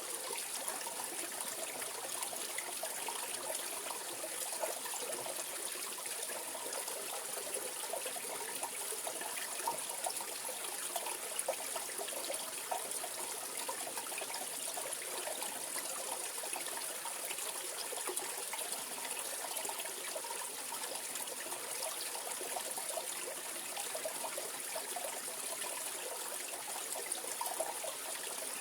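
Mountain valley stream flowing steadily, an even rush of water with small gurgles running through it.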